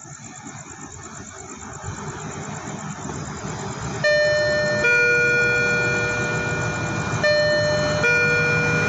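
A diesel train approaches, its rumble growing louder, then its horn sounds two-tone twice: a short higher note followed by a longer lower note each time.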